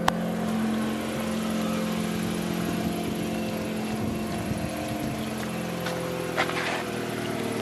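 2004 Mazda RX-8's two-rotor rotary engine idling cold with low compression, heard at the exhaust, its idle speed hunting so the pitch wavers and dips about five seconds in. A short click sounds right at the start.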